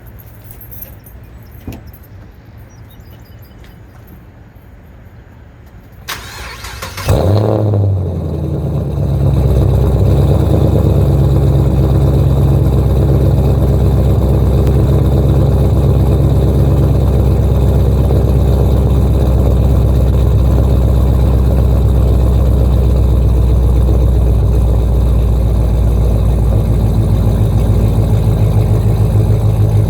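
2012 Chevrolet Camaro SS's 6.2-litre V8 with a Flowmaster exhaust cold-starting. A brief crank about six seconds in, then the engine catches with a quick flare of revs and settles into a steady, loud fast idle.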